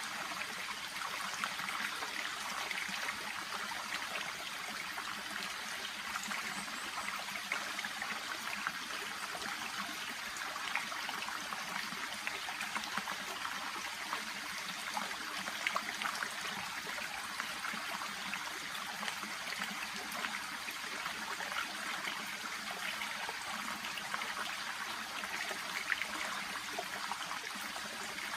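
A shallow stream babbling and trickling steadily, with small splashes and gurgles over a constant rush of water.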